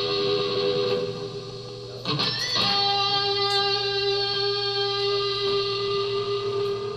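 Electric guitar music: sustained chords ringing through an effects unit, with a new chord struck about two seconds in and held.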